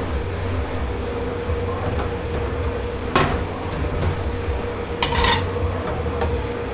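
Dishes and pans clattering as they are handled in a kitchen dish pit, with one sharp clank about three seconds in and a short run of clatters about five seconds in, over a steady low machine hum.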